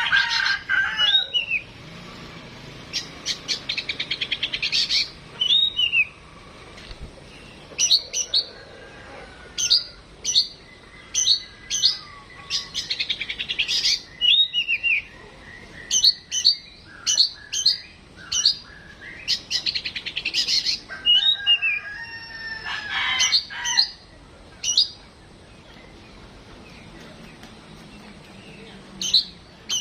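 Oriental magpie-robin (kacer) singing in loud bursts of rapid trilled notes and sharp whistles, with a few seconds' pause near the end.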